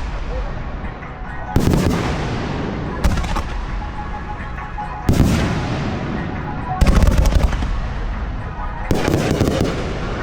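Fireworks shells bursting in a display, a sudden bang about every one and a half to two seconds, each dying away in a rolling echo, with a quick cluster of crackling bangs about seven seconds in. Music from the show's loudspeakers plays underneath.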